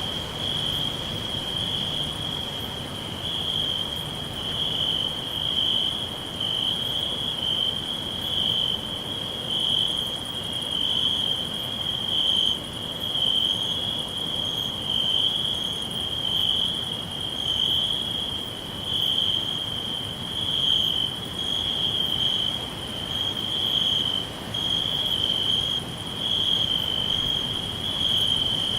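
Crickets trilling in a steady, high-pitched chorus whose level rises and falls every second or two.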